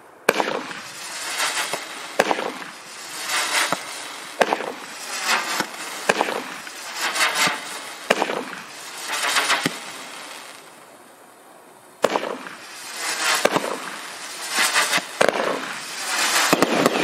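A consumer fireworks cake firing a string of shots. Sharp reports come every second or two, with a swelling hiss between them. The firing dies down for a couple of seconds, about ten seconds in, then resumes with a sudden bang.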